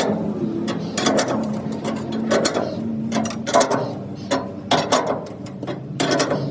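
Irregular clanks and knocks from metal work on a truck body, about one or two a second, over a steady machine hum.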